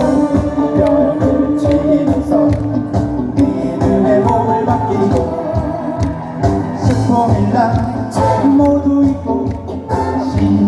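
A singer performing a song over backing music with a steady beat, amplified through a stage sound system.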